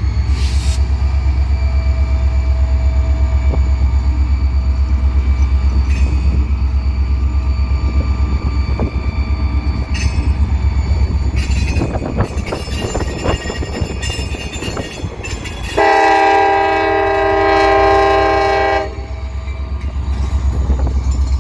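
Freight train passing with a steady, pulsing low rumble, and a stretch of wheels clicking over the rails in the middle. About sixteen seconds in, a locomotive air horn sounds one long blast of about three seconds.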